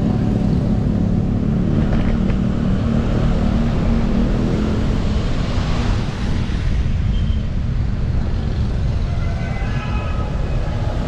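Steady, loud wind rumble on an action camera's microphone while cycling along a road, mixed with road and traffic noise.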